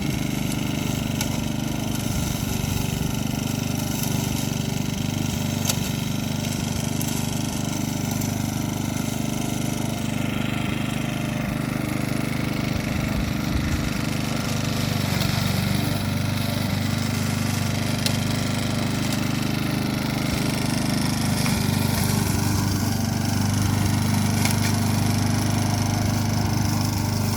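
Matsumoto petrol push lawn mower running steadily while cutting grass, its engine note shifting slightly a few times as the load changes.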